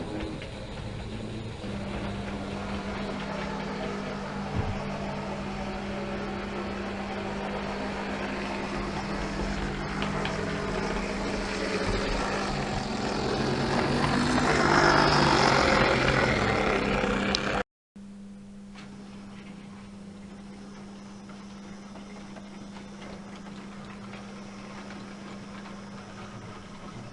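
A locomotive running with a steady hum that swells as it draws near, loudest about 15 seconds in. After a brief dropout just before the 18-second mark it goes on more quietly.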